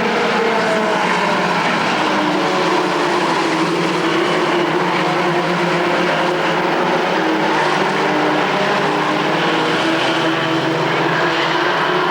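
Engines of several short-track race trucks running together on the oval, a steady drone of a few overlapping engine pitches that drift slightly up and down.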